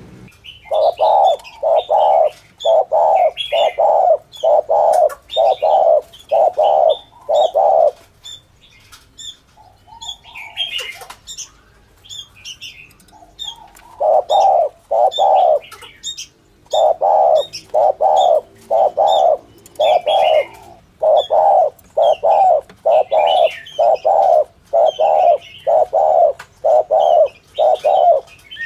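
Spotted dove giving its rapid 'thổ thúc gù' coo, a trapper's lure call: short, low coo notes repeated about twice a second in long runs. The runs pause for several seconds in the middle, while smaller birds chirp higher up.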